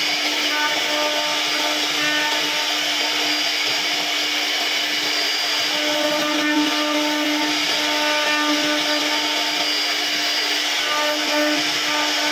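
CNC router spindle cutting wood, a steady whine with a constant hum underneath as the bit carves a curved relief pattern.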